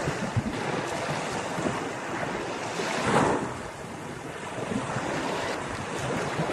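Ocean surf breaking on a beach: a continuous wash of waves, with one wave swelling louder about halfway through and then subsiding, and wind rumbling on the microphone.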